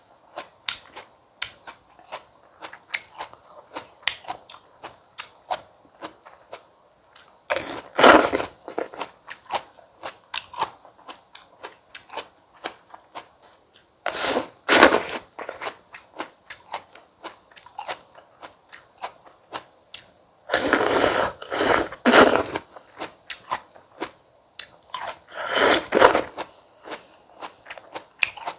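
A person biting and chewing firm stone fruit, close-miked: steady small wet chewing clicks, with a louder crunching bite about every six seconds, four in all.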